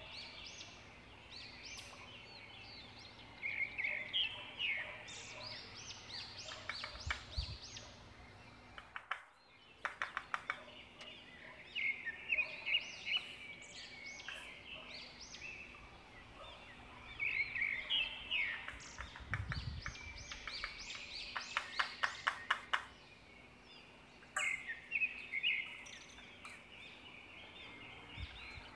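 Birds chirping in repeated bursts of quick, high notes, some bursts running into fast trills.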